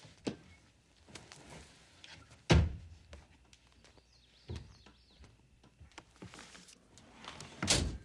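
Scattered knocks and thuds of household movement. A sharp thud comes about two and a half seconds in, and a longer, louder one comes near the end.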